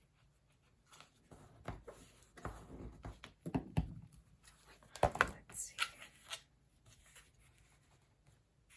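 Irregular rustling, light taps and clicks from craft materials (a book cover and linen fabric) being handled on a work surface, with the busiest handling in the middle.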